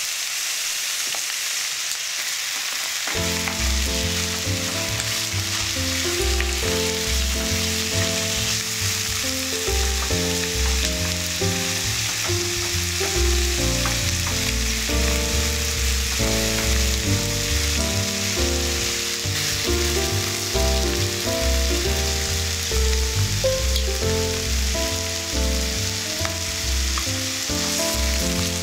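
Chicken pieces and chopped onion with cumin seeds sizzling in a frying pan, stirred with a wooden spatula. Background music comes in about three seconds in and plays over the steady sizzle.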